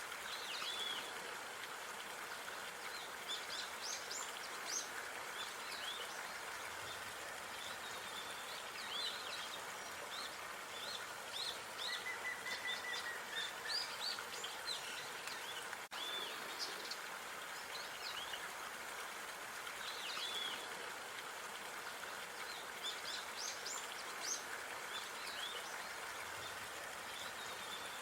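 Park ambience: many small birds chirping in quick short calls over a steady background hiss of distant noise. One bird holds a thin, even whistle about twelve seconds in, and the sound briefly drops out about halfway through.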